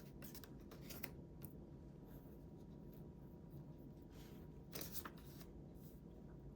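Faint paper-craft sounds of scrapbooking: a few light scratchy strokes and clicks of paper being handled and cut, with a small cluster about five seconds in, over a faint steady hum.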